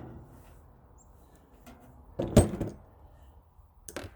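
One loud metal clank about halfway through, ringing briefly, followed near the end by a sharper click, as a furnace's sheet-metal parts are worked loose by hand.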